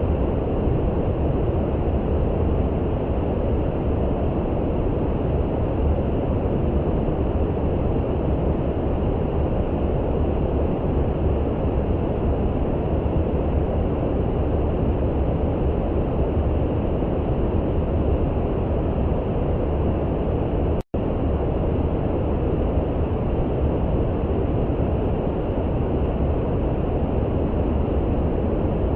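Steady brown noise: an even, deep hiss, heaviest in the lows, with no rhythm or change. It cuts out for an instant about two-thirds of the way through.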